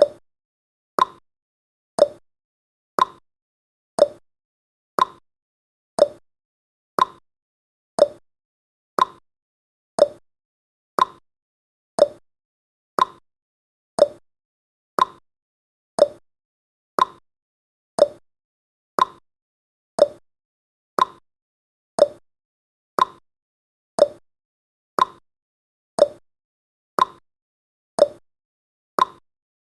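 Countdown timer's tick sound effect: a short, sharp tick once every second, steady and even.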